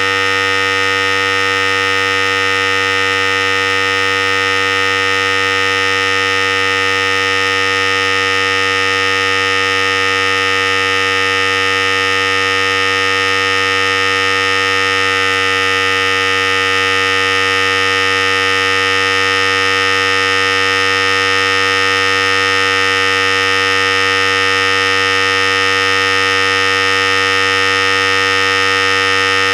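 Philips Series 5000 hair clipper running continuously with a steady, unchanging electric hum.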